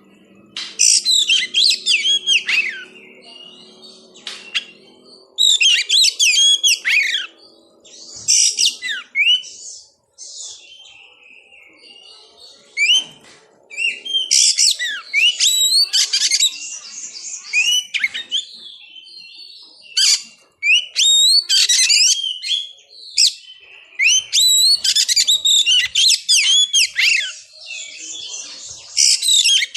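Oriental magpie-robin (kacer) singing loud bursts of rapid, varied whistled phrases, each a few seconds long, with short pauses between them.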